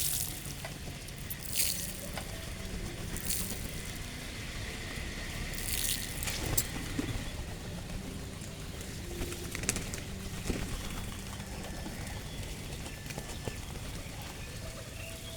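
Birds' wings flapping in several short, noisy flurries, about seven in all, over a steady low rumble, with a few faint short calls.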